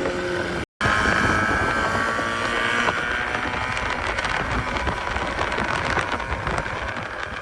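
Motorboat engine running at full throttle with heavy wind noise on the microphone. A high steady engine whine is clearest over the first few seconds. The sound cuts out completely for a split second under a second in.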